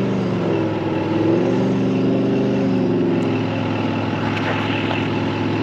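Vehicle engine running steadily, its pitch drifting slightly up and down.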